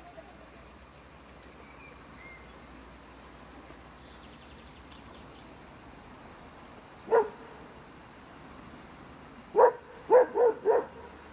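Black hunting hound barking: a single bark about two-thirds of the way in, then a quick run of four barks near the end, over a faint steady high hiss.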